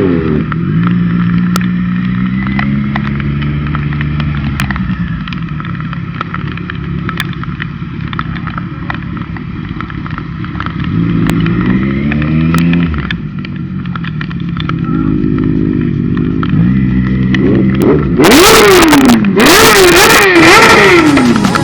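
Sports motorcycle engine running under way, its pitch holding steady and then climbing in several rises as it accelerates. Near the end it gets much louder, with quick up-and-down revs over a rush of noise.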